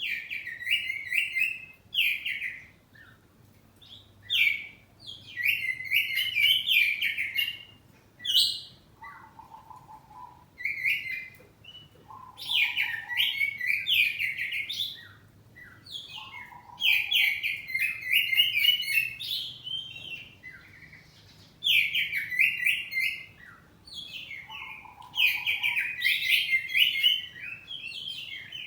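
Oriental magpie-robin (kacer) singing in loud bursts of rapid, varied whistled phrases, each lasting a second or two with short pauses between, and a few lower notes slipped in between the bursts.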